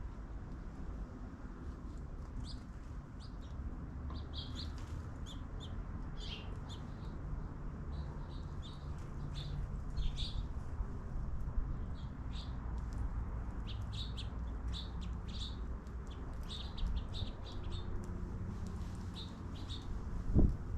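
Small birds chirping: many short, high chirps in quick irregular runs over a steady low rumble. A low thump comes near the end.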